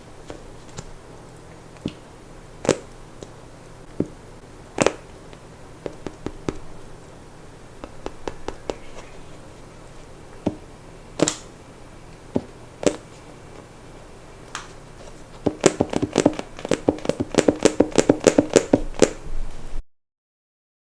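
Hands handling small plastic toys, giving scattered sharp taps and clicks, then a quick run of many clicks in the last few seconds before the sound cuts off.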